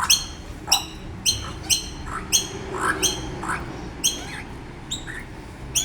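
Baby birds' begging calls: short, shrill squawks, each falling in pitch, repeated about twice a second with smaller chirps between.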